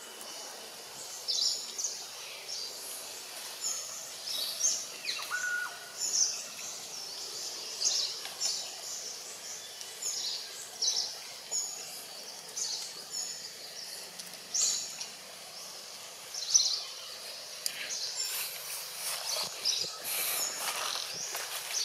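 Outdoor ambience of small birds chirping, short high calls repeating about once a second over a steady background hiss, with some rougher rustling sounds near the end.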